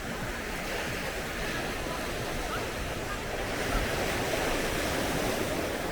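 Sea surf washing onto the beach, a steady hiss of breaking waves that swells a little past the middle, with some wind on the microphone.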